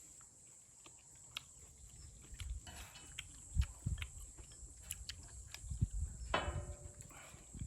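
People eating stew and ramen noodles close to the microphone: chewing and slurping with light utensil clicks, and a short hum-like voice sound about six seconds in.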